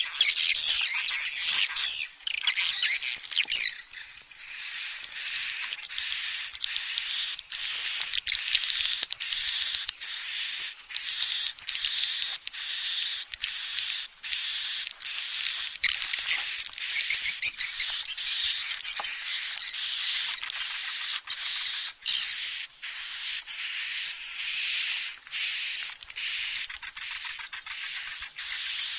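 Recorded swiftlet calls used as a lure sound for swiftlet nesting houses: dense, high-pitched twittering in short repeated phrases with brief gaps. Rapid chattering trills come at the start and again about midway.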